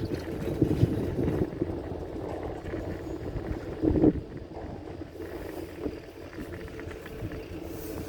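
Four-seat chairlift in motion: a steady mechanical rumble with wind, and a brief louder rumble about four seconds in.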